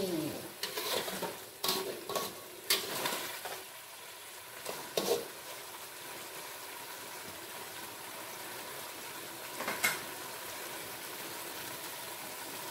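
Green chilli sambal with boiled eggs and tofu sizzling in an aluminium wok as the sauce cooks down. A metal spatula stirs and scrapes the pan, with a few sharp knocks against the wok in the first five seconds and once more near ten seconds, over a steady sizzle.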